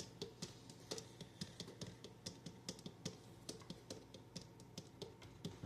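A spoon stirring tea in a cup, making light irregular clinks against the sides, several a second.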